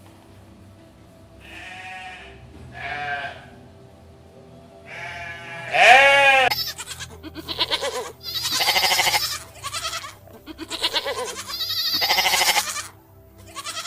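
Goats or sheep bleating repeatedly: a few short calls in the first seconds, a loud bleat about six seconds in, then a rapid run of quavering calls to the end.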